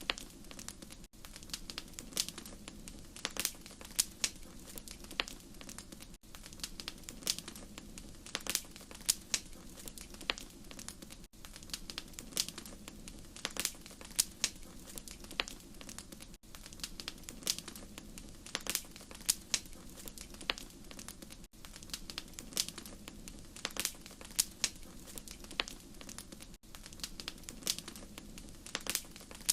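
Wood fire crackling, with frequent irregular sharp pops and snaps over a soft steady hiss, and a brief dip in level about every five seconds.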